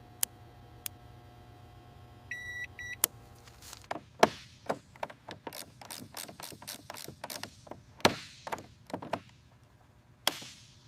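Two short electronic beeps, then a long run of irregular sharp clicks and taps, a few each second.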